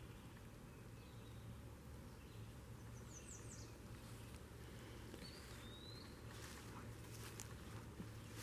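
Faint outdoor birdsong: a few short high chirps and a rising whistled note over a steady low background hum, with a few soft clicks near the end.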